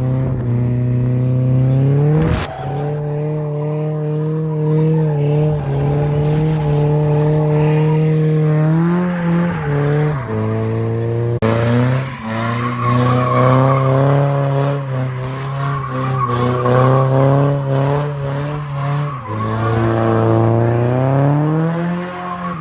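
A car's engine held at high, steady revs while its tyres squeal and skid, as in a burnout or donuts. The revs drop and pick up again several times.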